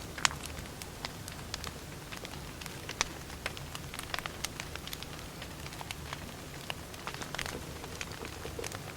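Wood fire crackling: irregular sharp pops and snaps, several a second, over a steady low background noise.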